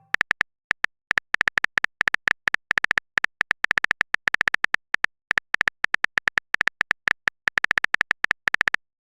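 Phone keyboard typing sound effect: a quick, irregular run of short clicks, as of keys being tapped to type a message, stopping shortly before the end.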